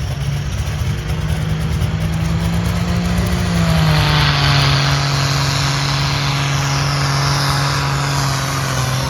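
A pulling tractor's engine running loud and held at high revs under load. Its pitch drops slightly about three and a half seconds in, then stays steady while a hiss builds over it.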